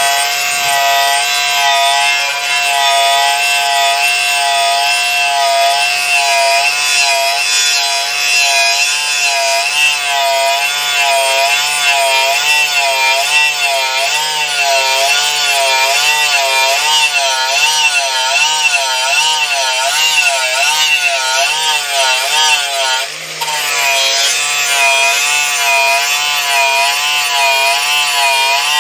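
Power tool fitted with a rust-stripping wheel, running against a steel bumper to take off rust and paint. Its motor whine wavers up and down in pitch in a regular rhythm as the wheel is pressed and moved over the metal, with a brief let-up about 23 seconds in.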